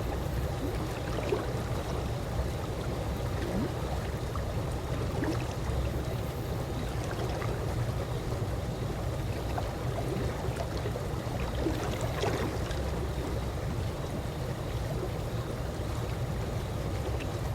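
Calm pool water lapping gently, a steady low wash with small scattered splashes and trickles.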